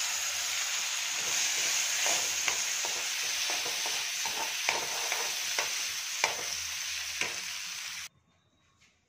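Chopped onion and tomato sizzling in hot butter in a kadhai, with a steel spoon stirring and clinking against the pan now and then. The sizzle cuts off abruptly near the end.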